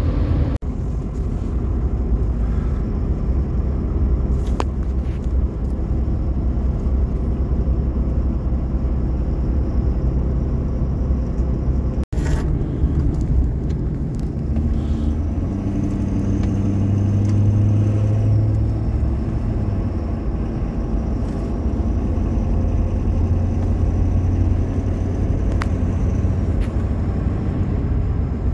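Road vehicle driving along, a steady engine and road rumble, with a stronger deep hum for a few seconds past the middle. The sound cuts out for an instant about twelve seconds in.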